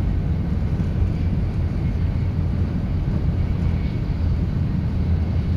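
Tokaido Shinkansen bullet train running at speed, heard from inside the passenger car: a steady low rumble that does not change.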